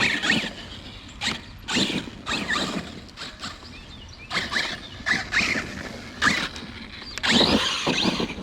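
Arrma Kraton 6S RC car driven in short throttle bursts: its brushless electric motor whining up and down, with tyres scrabbling over wet ground, about a dozen uneven bursts.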